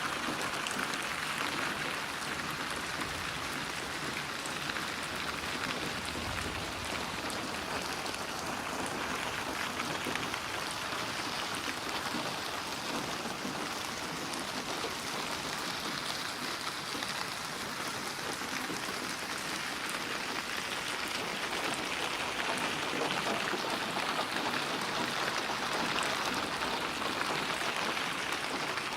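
Steady rain falling, an even patter with no thunder.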